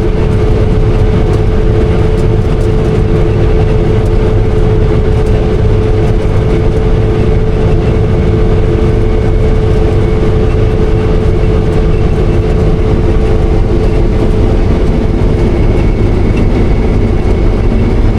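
Combine harvester running steadily while cutting wheat: a continuous heavy machine rumble with a steady whine held throughout.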